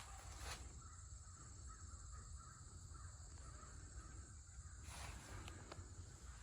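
Near silence: faint bird calls over a low steady rumble of outdoor ambience.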